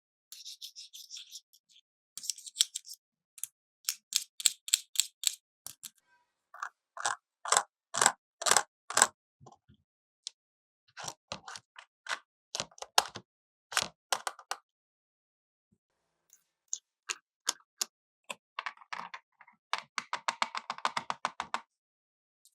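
Toy cash register playset being handled: runs of sharp clicks and taps, with short pauses between them and a fast, dense rattle of clicks near the end.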